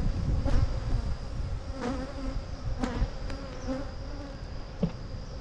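Many honeybees buzzing in flight around a hive, a wavering hum with a few short, sharp clicks.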